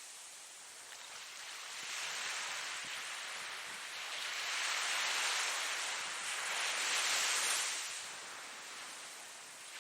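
Ocean surf: waves breaking and washing up the shore, the hiss building for several seconds to a peak and then falling away near the end.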